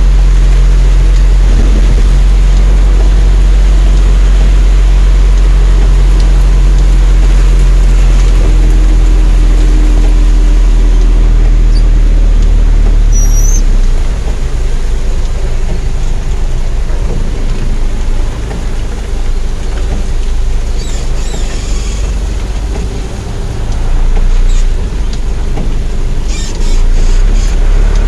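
Heavy rain on a car's roof and windshield, heard from inside the moving car, over a loud steady low rumble. About halfway through, the rumble drops and the sound turns uneven.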